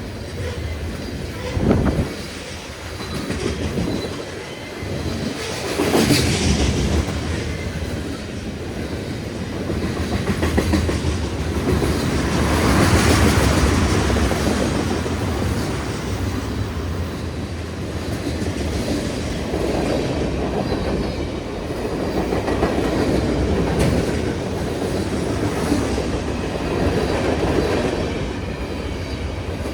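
A long CN freight train passes at speed, its steel wheels clattering over the rail joints under a continuous rumble that swells and eases. A sharp knock comes about two seconds in, and a brief louder surge follows a few seconds later.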